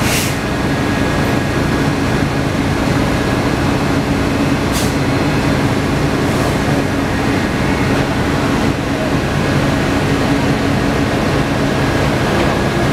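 A steady engine running with a constant low hum under continuous noise, with a short sharp sound about five seconds in.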